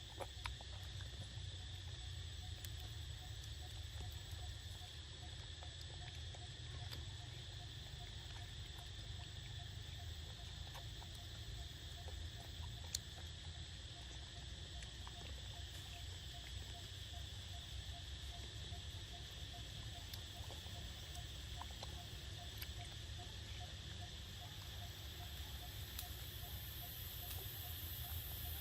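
Insect chorus: a steady high buzz, with a fast run of low repeating pips through most of it and a sharp click about halfway through.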